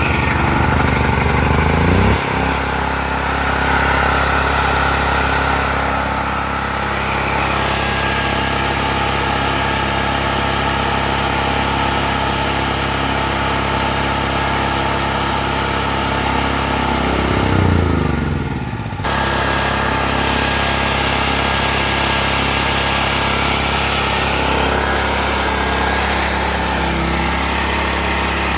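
Portable generator engine running steadily. Its pitch sags about 2 seconds in, then sags further around 17 to 19 seconds in before it picks back up sharply. This is the unsteady running of a generator that keeps shutting off and restarting.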